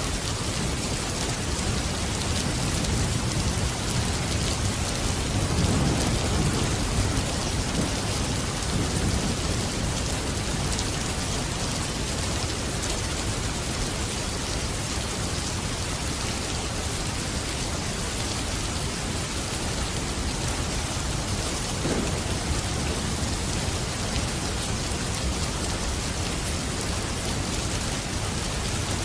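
Steady rain falling, an even hiss of drops. A low rumble swells and fades between about four and nine seconds in.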